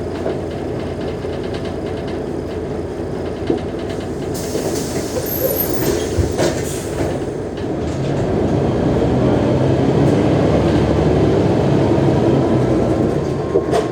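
Mercedes-Benz O345G articulated diesel bus running steadily, with a burst of air hiss about four seconds in. From about eight seconds the engine grows louder as the bus pulls away, with a faint whine rising in pitch.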